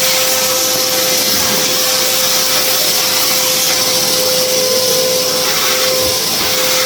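Henry canister vacuum cleaner running steadily with a constant whine over its suction hiss, picking up building dust.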